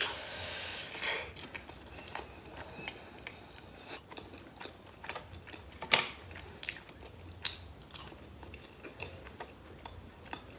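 A person biting into a slice of cheese and pineapple pizza, then chewing it, with scattered sharp mouth clicks. The loudest click comes about six seconds in.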